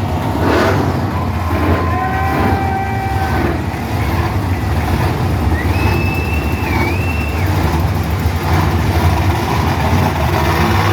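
Monster truck engines running with a deep, steady rumble. A few shouts from the crowd are held above it, in the first few seconds and again about six seconds in.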